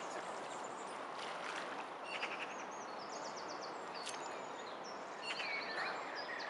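Small birds singing, many quick high chirps and trills, over a steady rushing hiss.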